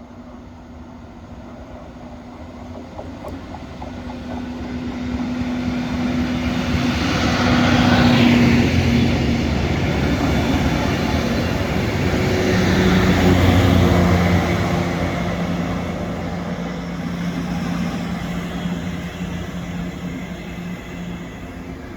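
Network Rail rail grinding train passing at speed, its diesel engines and wheels on the rails growing louder. It comes to two peaks several seconds apart, the engine note dropping in pitch as it goes by, then fades away.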